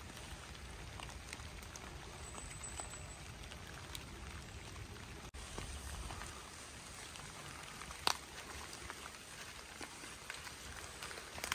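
Rain falling in woodland, drops pattering steadily on wet leaves and a tarp, with many small scattered ticks and one sharper click about eight seconds in.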